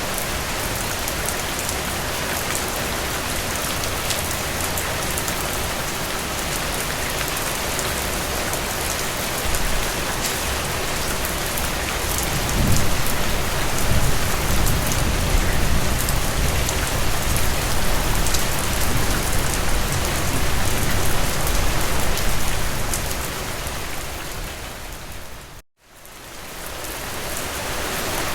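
Heavy rain falling steadily, with many fine drop ticks over an even hiss. About halfway through a low rumble swells in under it, then the sound fades out, cuts to silence for a moment and fades back in near the end.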